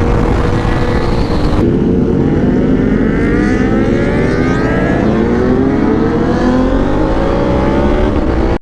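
Superbike engine running hard at highway speed with heavy wind rush, its note changing abruptly about two seconds in and then climbing steadily as the bike accelerates.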